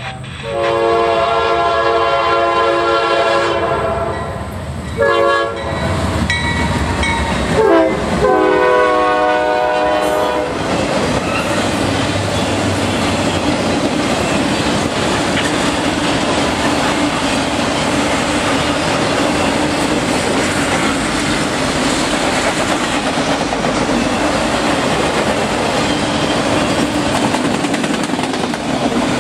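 Norfolk Southern freight train approaching and passing: the locomotive horn sounds a long blast, then further blasts, dropping in pitch as the locomotive goes by about eight seconds in. After that comes the steady noise of the autorack cars' wheels rolling past on the rails.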